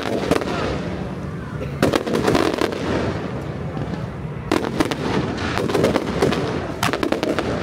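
Fireworks and firecrackers going off in clusters of rapid sharp bangs, a few seconds apart.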